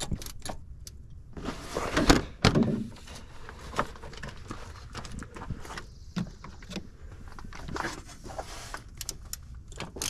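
Metal hand tools and parts clinking and knocking, with rustling handling noise, while a replacement starter is being bolted in under a Honda Odyssey.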